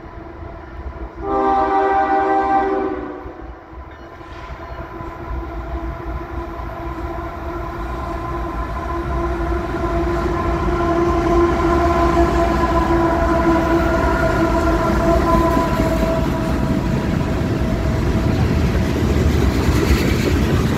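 CSX diesel freight train approaching and passing. Its air horn sounds a short loud chord blast about a second in, then a longer steady horn sound from about halfway. The locomotives' rumble and wheel noise swell as the tank cars start rolling by near the end.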